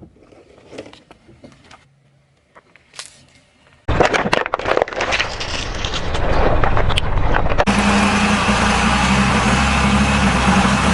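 A car crushing objects under its tyres: scattered light clicks, then loud dense crackling and crunching about four seconds in. Near the end it gives way to a steady run of car noise with a low hum.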